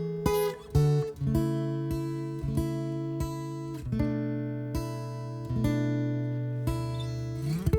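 Acoustic guitar played fingerstyle, with a held bass note under a run of sharply picked notes. Near the end a bass note slides up into a ringing chord.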